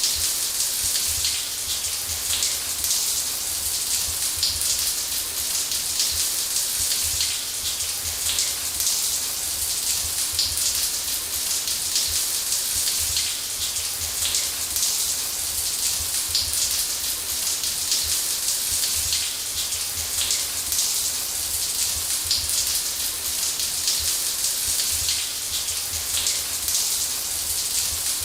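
Shower running steadily: water spraying from the head and pattering on a surface, an even hiss strongest in the highs with a faint low rumble underneath.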